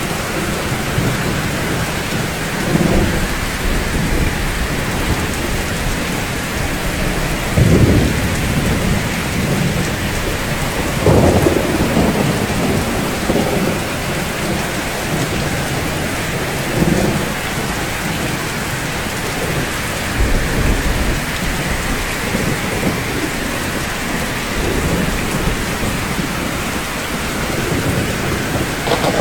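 Steady rain falling on rooftops, with low rolls of thunder rising out of it several times; the loudest come about 8 and 11 seconds in.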